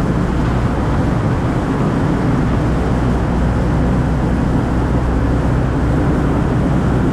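Steady road, tyre and engine noise of a 2004 Ford Focus cruising at highway speed, a constant low rumble and hiss.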